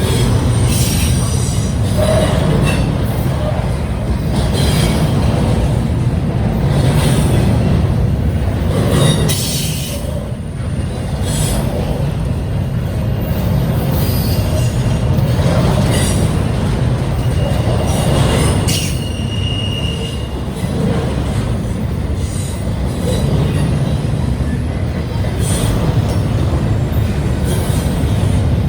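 Double-stack intermodal freight cars rolling past: a steady heavy rumble of steel wheels on rail, with repeated sharp wheel clacks and a brief high wheel squeal about two-thirds of the way through.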